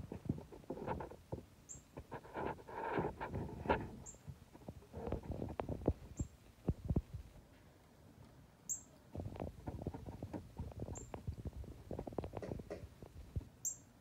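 Short, high bird chip notes, one every second or two, over bursts of soft, irregular rustling and tapping.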